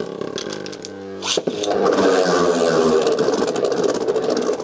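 Beyblade Burst tops spinning in a plastic stadium: a steady whirring hum, a sharp clash about a second in, then rapid clicking and rattling as the spinning tops grind and hit each other.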